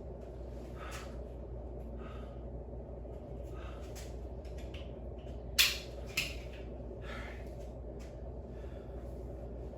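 Two sharp knocks about half a second apart a little past the middle, over a steady low background hum with a few faint breaths.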